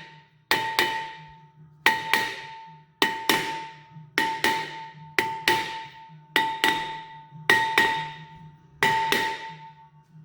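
A hammer strikes a stuck rear brake rotor on a Jeep Grand Cherokee's hub in pairs of blows, about one pair a second. Each blow leaves the cast-iron rotor ringing with a clear metallic tone that fades away. The blows are freeing a rotor seized to the hub.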